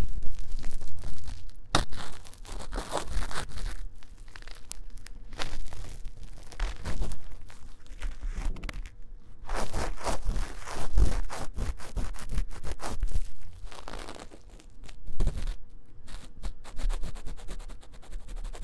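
Ear-cleaning sounds close to the ears of a 3Dio binaural microphone: fast, rough scratching and rustling strokes, with a few brief pauses.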